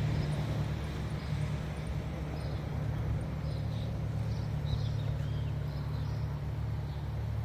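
Steady low hum of street traffic, with faint, short, high chirps of house sparrows scattered through it.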